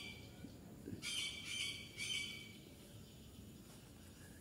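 Birds chirping in short high-pitched bursts, about a second in and again around two seconds in, over faint outdoor background.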